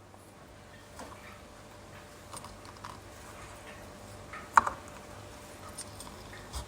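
Lemons being squeezed in a hand juicer: scattered light clicks and taps of the squeezer and fruit, with one sharper click about four and a half seconds in.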